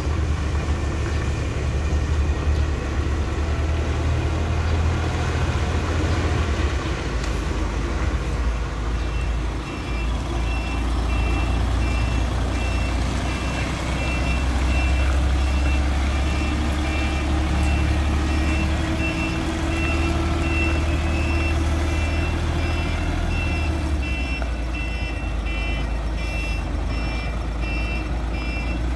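Concrete mixer truck's engine running with a deep, steady rumble. From about a third of the way in, its reversing alarm beeps in an even repeating pattern while the truck backs up.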